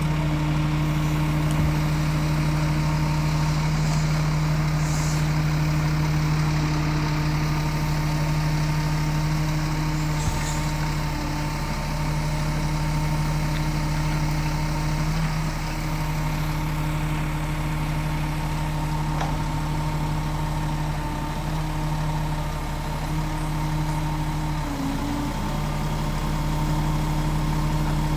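Scania G450 truck's 13-litre six-cylinder diesel engine running steadily, with an even low hum that barely changes.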